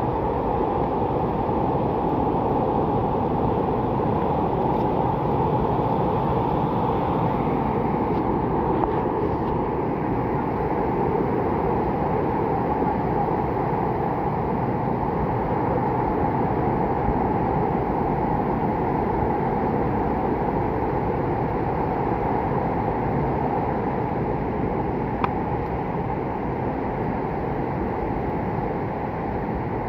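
Rain falling steadily in a forest, an even rushing noise that holds the same level throughout.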